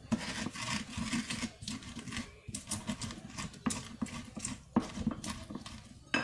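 A person chewing and smacking close to the microphone while eating ayam geprek (smashed fried chicken with chilli sambal): a run of short, wet clicks and smacks.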